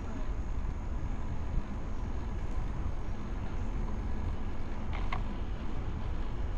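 Steady low wind rumble on the microphone from riding a bicycle, with a brief faint sound about five seconds in.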